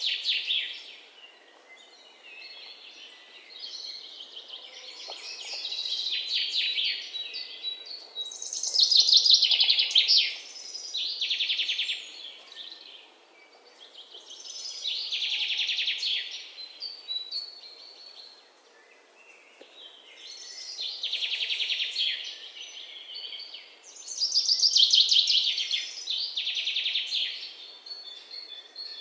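Songbird song: quick, high trilled phrases of two to three seconds each, repeating about every five seconds, over a faint steady outdoor hiss.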